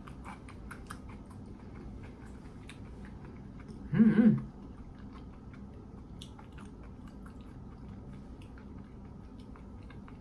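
A person chewing fried seafood with the mouth closed: soft wet chewing with many small mouth clicks. About four seconds in there is a short hummed vocal sound.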